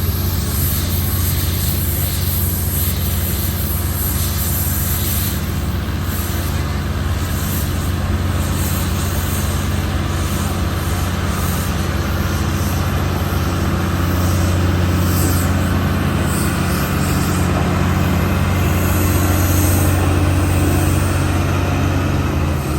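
Heavy diesel engine of a bulldozer running steadily at work, a constant low hum that gets a little louder in the second half.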